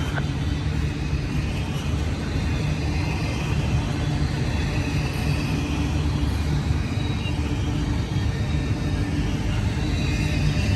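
Diesel freight train passing with a steady low rumble.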